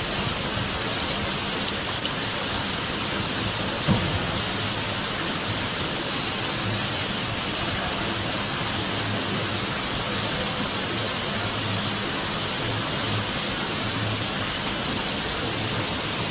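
Steady rushing, hiss-like noise, even throughout, with a single brief knock about four seconds in.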